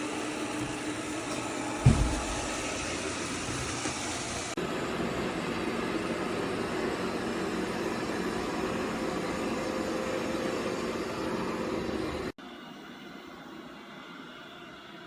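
eufy L60 robot vacuum running with a steady motor whirr, and a single thump about two seconds in. The sound changes abruptly twice and is quieter from about twelve seconds in.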